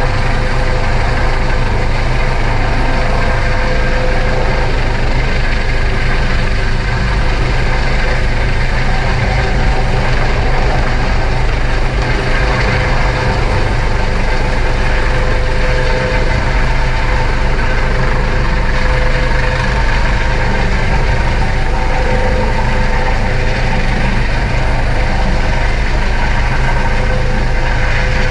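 Coast Guard helicopter rotor and turbine running, loud and steady, with a fast low throb from the rotor blades.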